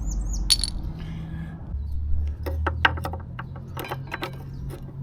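Light metallic clicks and taps of motorcycle brake caliper parts and tools being handled, a rapid scatter of them from about halfway through. A bird chirps a few times right at the start.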